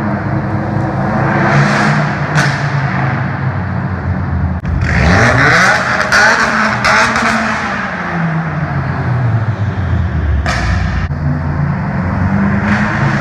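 Straight-piped 2018 Subaru WRX's turbocharged flat-four running loud. The revs climb sharply about four and a half seconds in, then fall away over the next few seconds. Short sharp noises come during the climb and once more later.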